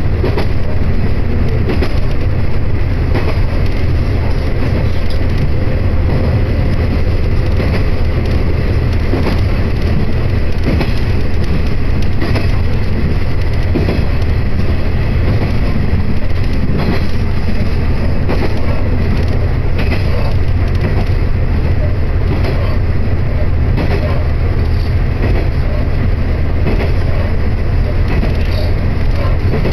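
Cabin noise inside a diesel railcar running at speed: a loud, steady low rumble with scattered clicks from the wheels and rails.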